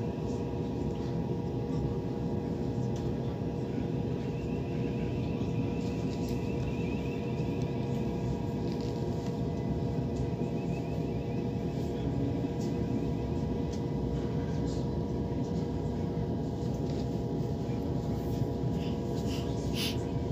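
Inside a moving electric commuter train: a steady rumble of wheels on the track with a constant hum. A few sharp clicks come near the end.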